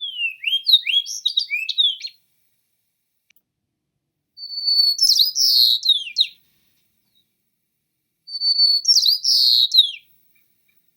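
A songbird singing three separate song phrases of quick, sliding whistled notes. The second and third phrases each open with a held high whistle that breaks into a run of falling notes.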